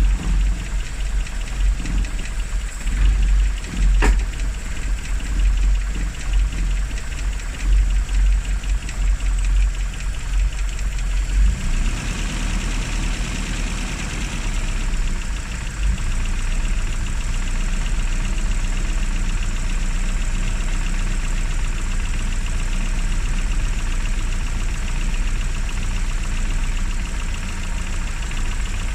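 Classic Mini's A-series four-cylinder engine running after standing unused for three months, uneven at first with a sharp click about four seconds in, then settling about twelve seconds in to a steadier, even idle.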